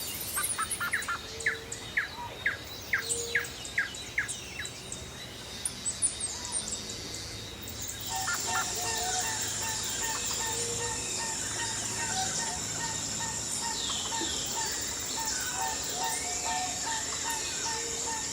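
Wild birds chirping in a quick series of short calls. About eight seconds in, a louder, steady high hiss with short, evenly repeated notes takes over.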